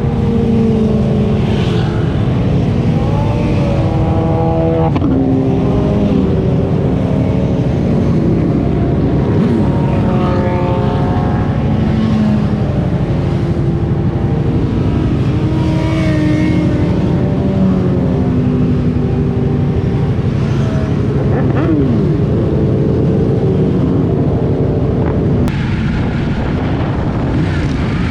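Motorcycle engine running on the move, its pitch rising and falling again and again with throttle and gear changes, over a steady rush of road and wind noise. Near the end the sound drops and settles into a lower, steady engine note.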